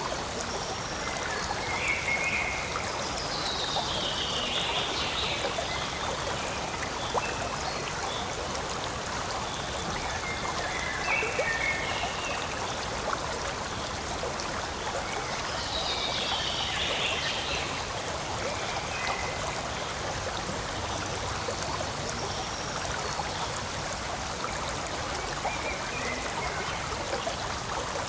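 Forest stream flowing steadily, an even rush and trickle of water. A few brief higher-pitched calls sound over it now and then.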